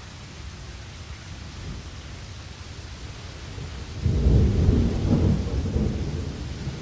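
Steady rain with a deep roll of thunder breaking in about four seconds in, loud and low, rumbling for a couple of seconds before easing back under the rain.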